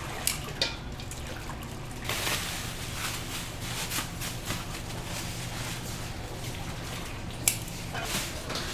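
Liquid trickling and splashing, with a few sharp clicks and a steady low hum underneath.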